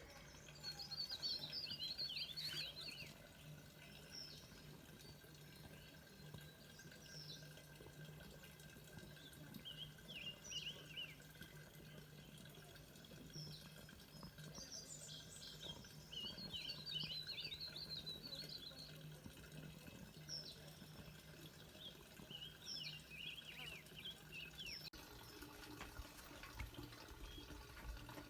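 Songbirds singing: several bursts of quick twittering song, with single short high notes a few seconds apart in between. A faint steady low hum runs beneath and stops near the end.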